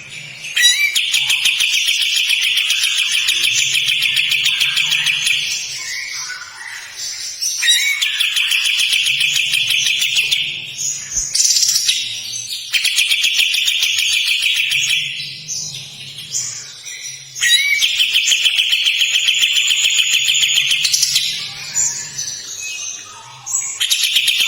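A kapas tembak bird singing long, harsh, rasping trills ('besetan kasar'): five rapid rattling phrases of three to four seconds each, with short breaks of softer notes between them.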